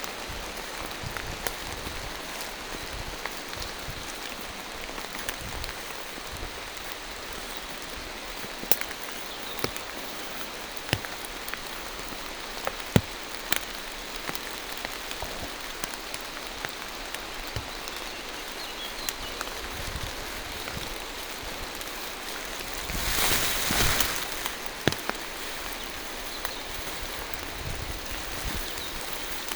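Steady rain falling through forest trees, with many single drops ticking sharply. Past the middle, a louder rush of noise swells for about a second and a half and dies away.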